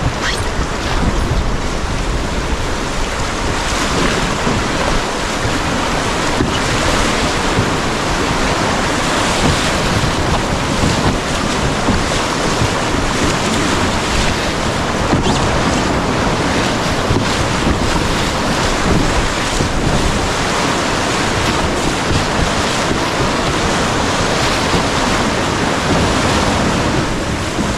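Whitewater rapid rushing loud and steady, with wind buffeting the microphone.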